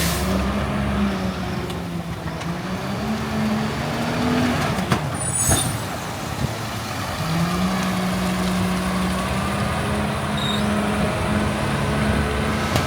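Garbage truck's diesel engine running; its pitch steps up about seven seconds in and holds there. A brief sharp air hiss, typical of a truck's air brakes, comes about five and a half seconds in.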